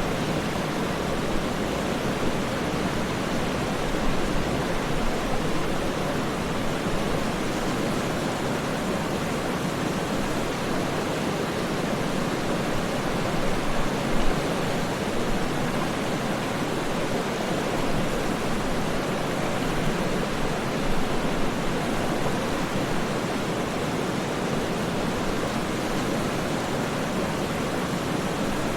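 Waterfall: a steady, even rush of falling water with a deep, full sound and no separate splashes standing out.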